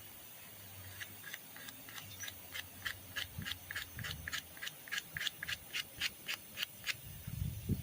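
Sandpaper rubbed back and forth by hand in quick, even strokes, about four a second, cleaning up a drum-brake part. A few dull low bumps come near the end.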